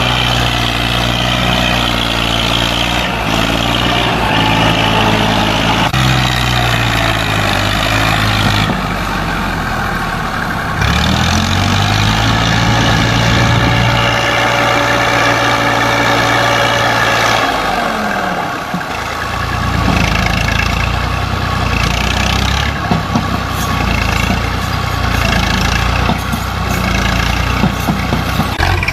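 Massey Ferguson 240 tractor's diesel engine running loudly, revving up about eleven seconds in, holding higher for several seconds, then dropping back.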